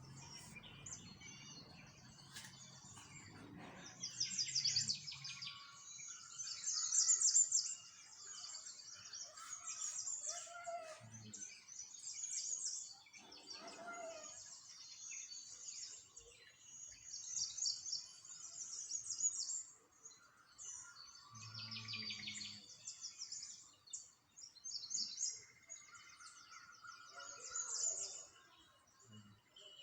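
Small songbirds chirping and singing, with fast, high trills repeating every second or two and some lower whistled notes between them.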